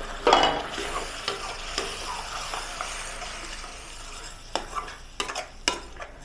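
Tomato purée going into hot ghee and butter in a kadai, with a burst of sizzling just after the start that settles into a steady frying sizzle. In the second half a spoon knocks and scrapes against the kadai several times as the purée is stirred.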